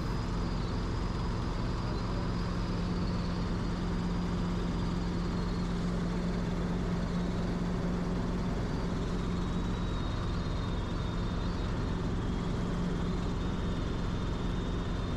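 Helicopter in steady flight: an even drone of engine and rotors with a faint high whine that drifts slowly lower.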